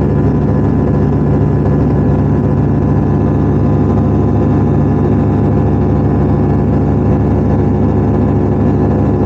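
Arcus-M glider's retractable engine running steadily under power, heard inside the cockpit, with wind noise on the microphone from the air vent.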